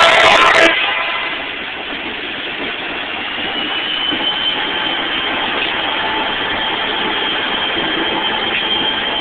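Diesel freight locomotive working up a grade with a short train, a steady engine drone with a faint high whine held throughout. Music cuts off abruptly within the first second.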